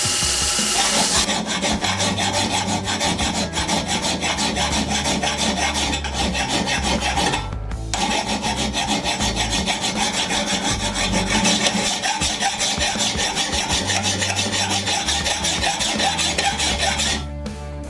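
A power tool's whine cuts off about a second in. It is followed by rapid, continuous back-and-forth strokes of a hand file rasping on the steel knife blank, with a brief pause midway.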